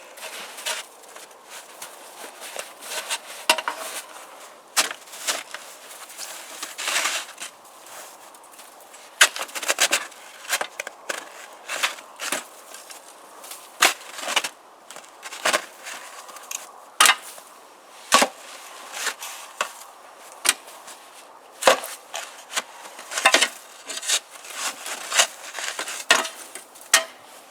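Irregular chopping, cracking and scraping at frozen, crusted snow and ice, breaking loose a lawnmower frozen into it. The sharp knocks come at uneven intervals, a few seconds apart, with shorter scrapes between.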